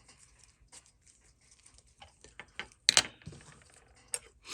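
Light clicks and taps of small metal watchmaking tools and parts being handled on a workbench, scattered and irregular. A louder sharp click comes near the middle and another near the end.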